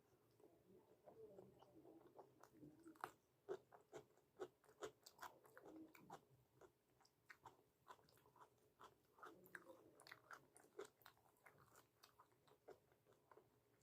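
Close-up chewing of chhole bhature: soft wet chewing with many sharp mouth clicks and smacks at an irregular pace, several a second at the busiest.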